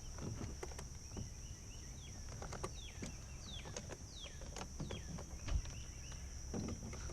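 Steady high-pitched insect drone, with a bird giving a series of short downward-sliding calls through the middle and a few light clicks.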